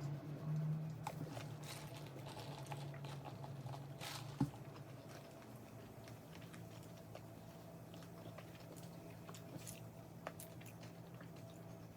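A person biting and chewing KFC fried food close to the microphone, with many small crunches and clicks and one sharp knock about four seconds in, over a steady low hum.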